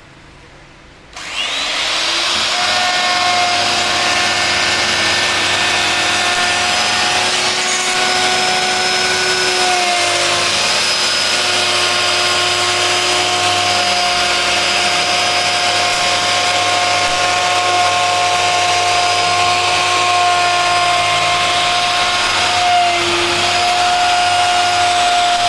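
An electric woodworking power tool's motor starts about a second in and runs steadily with a high whine. Its pitch dips briefly twice as it takes load in the wood.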